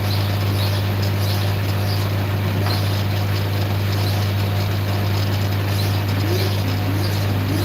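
Steady low hum of a running machine or motor, with a few faint short rising chirps near the end.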